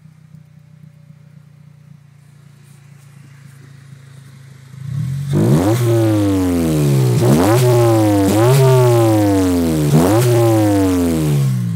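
2002 Acura RSX Type-S 2.0-litre four-cylinder, fitted with a Skunk2 exhaust and a catless header, idling, then revved hard about four times from about five seconds in. Each rev climbs sharply in pitch and falls slowly back before the engine returns toward idle near the end.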